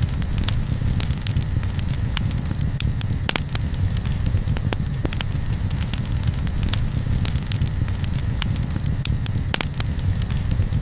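Campfire crackling: irregular sharp pops and snaps over a steady low rumble, with a faint high chirp repeating every half second or so.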